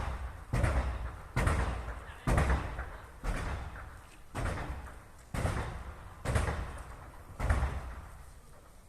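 About eight loud bangs from explosions in a fire, coming roughly once a second. Each starts suddenly and dies away in a short echoing rumble.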